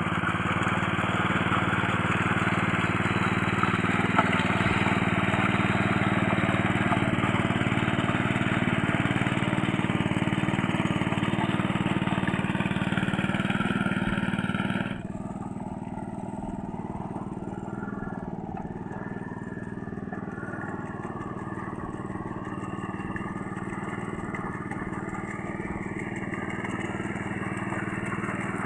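Small rice-paddy tractor engine running steadily while it works deep mud. About halfway through, the sound drops suddenly quieter and duller, then runs on and grows slightly louder near the end.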